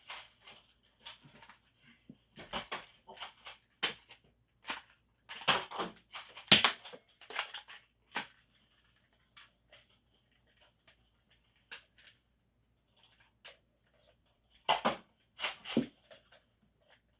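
Irregular sharp plastic clacks and knocks from toy foam-dart blasters being primed and fired. There is a cluster in the first several seconds, a quiet stretch with only a few isolated clicks, and a couple more knocks near the end.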